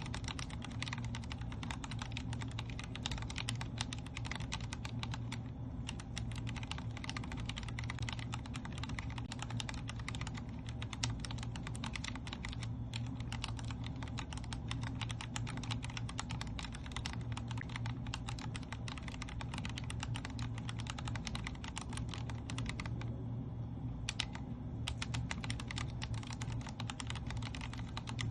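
Continuous typing on a Vortex Core 40% mechanical keyboard with Cherry MX Speed Silver linear switches: a dense stream of keystroke clacks, with short pauses about five seconds in and again about three-quarters of the way through. A steady low hum lies underneath.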